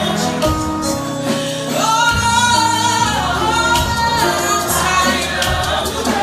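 Live gospel choir singing over a band with bass, keyboard and drums, the voices holding long notes.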